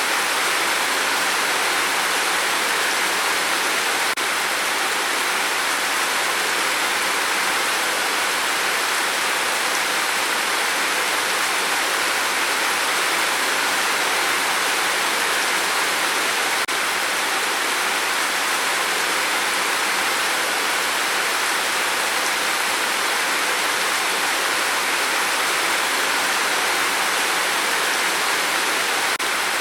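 Heavy rain falling in a steady, dense hiss with no single drops standing out.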